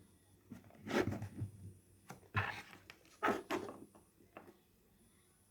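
Three short bursts of rustling and scraping, about a second apart, then a faint tap near the end: small objects being handled by hand.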